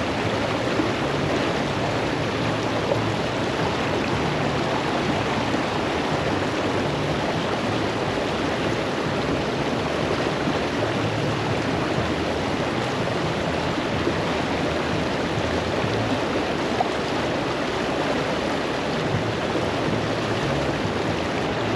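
River water rushing steadily past, an even continuous rush.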